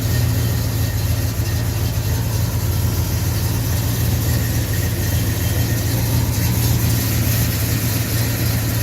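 1969 Pontiac GTO Judge's 400 cubic inch V8 idling steadily with a deep, even exhaust note.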